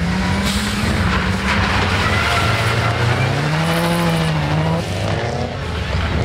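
Rally car engine at full attack on a stage, revving hard with the pitch climbing and dropping through gear changes, and a rise and fall in pitch about four seconds in as it sweeps past.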